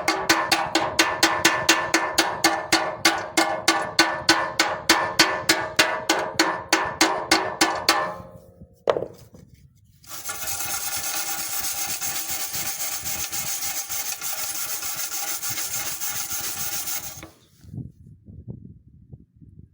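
Rapid, regular hammer strikes on steel, about five a second, each ringing. They stop about eight seconds in. Then comes a steady grinding rasp on the metal for about seven seconds, which cuts off suddenly.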